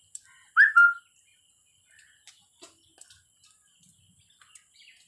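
A bird calls loudly twice in quick succession about half a second in, the second note a short held whistle. Faint chirps and ticks follow.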